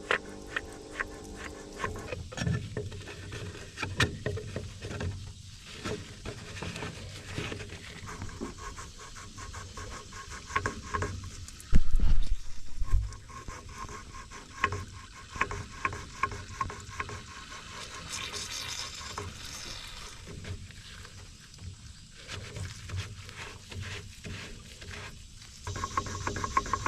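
Hand work on an excavator's fuel filter assembly: irregular clicks, taps and clanks of tools and parts being handled, with a heavier knock about twelve seconds in.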